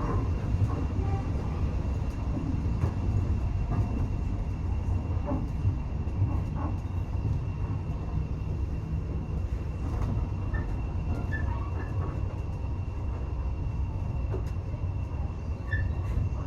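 Railway carriage running along the track, heard by a passenger: a steady low rumble with scattered small clicks and knocks and a faint steady high whine.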